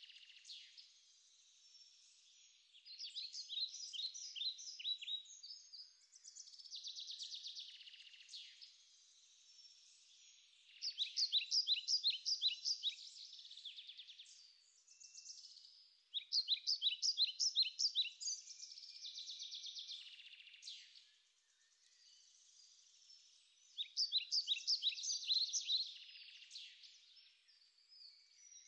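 A small songbird singing: phrases of quick, high repeated notes, each about two seconds long, coming every few seconds with quieter pauses between.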